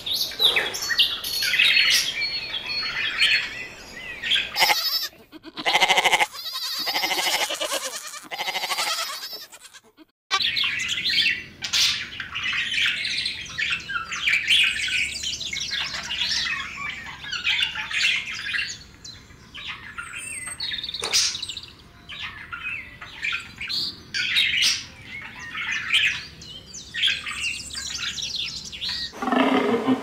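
Bird calls for about the first ten seconds, then, after a sudden cut, a Eurasian wren singing its fast, high, run-on song in long phrases. A lower roar begins right at the end.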